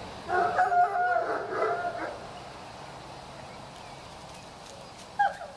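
An animal calling: a quick run of short, steady-pitched calls for about two seconds, then one short falling call near the end.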